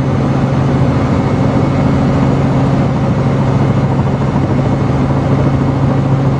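Helicopter in flight, its engine and rotors making a loud, steady drone with a constant low hum, heard from inside the cabin.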